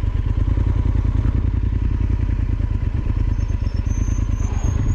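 Yamaha Super Ténéré XT1200Z's parallel-twin engine running steadily, an even, rapid low pulsing with no revving.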